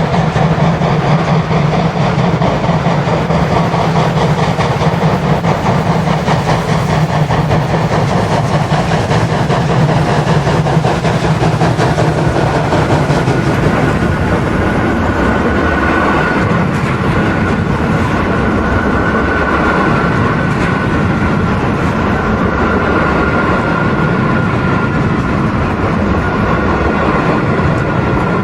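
Märklin model freight train running: a long string of wagons rolling with a steady rattle and clatter of wheels on the track. A faint steady whine comes in about halfway through.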